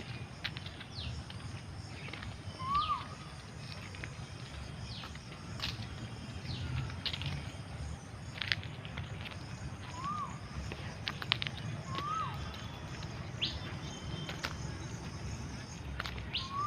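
Birds chirping: scattered short, high downward chirps, and a lower arched call that recurs four times, over a steady low rumble.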